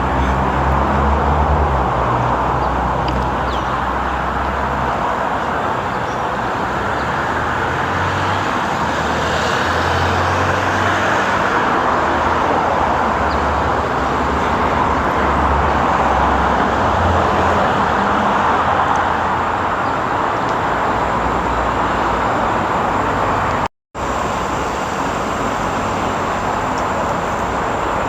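Steady road traffic noise, a continuous rush with a low rumble under it, broken by a sudden brief cut to silence near the end.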